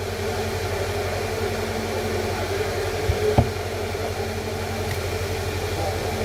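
Steady low mechanical hum, a motor or fan running, with two short knocks a little past the middle.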